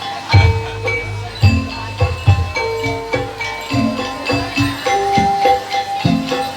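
Kuda lumping accompaniment: a gamelan-style ensemble of drums and tuned metal mallet percussion playing a busy rhythmic pattern, with repeated low drum strikes under ringing pitched notes.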